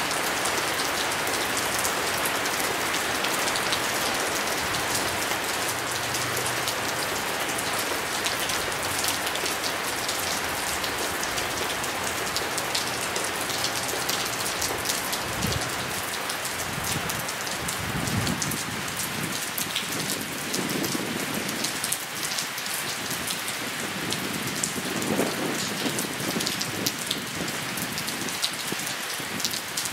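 Steady rain falling, a dense even hiss with close raindrop ticks throughout. A few low rumbles swell and fade in the second half.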